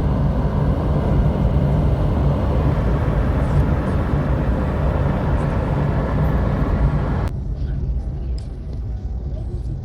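Steady road and engine rumble of a car being driven, heard from inside. About seven seconds in, the higher hiss drops away and a lower rumble carries on.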